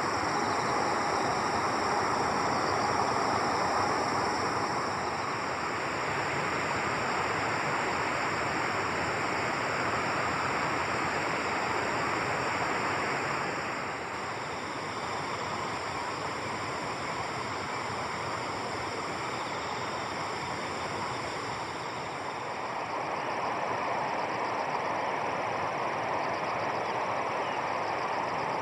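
Steady rushing outdoor noise, like running water or wind, with a steady high-pitched band of sound above it. It drops slightly about halfway through and comes back up near the end.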